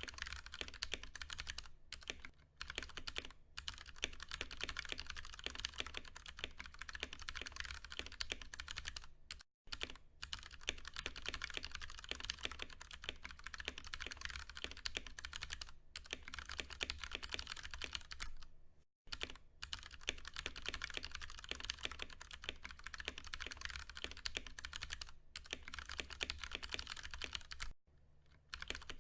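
Continuous fast typing on a Ducky One 2 Mini mechanical keyboard with Cherry MX Brown tactile switches, a dense run of key clicks broken by a few brief pauses.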